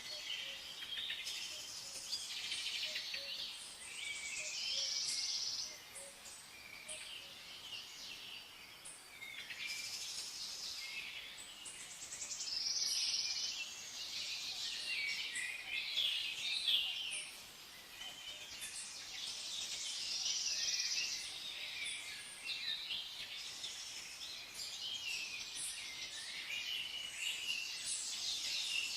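Several songbirds chirping and trilling at once in a dense, continuous chorus that swells and fades every few seconds.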